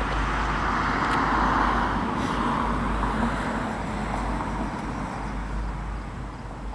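Norfolk Southern freight train rolling past, a steady rumble and hiss of wheels on the rails that slowly fades away.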